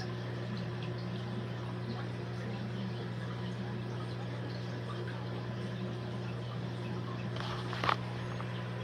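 Aquarium equipment running steadily: a constant low electric hum with a faint trickle of water. A short, brief noise breaks in once near the end.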